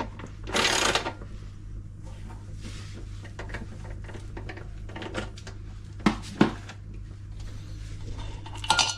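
Ratchet wrench clicking and metal tools clinking while the central bolt on the LG washing machine's drum shaft is undone, with two sharp metallic knocks about six seconds in.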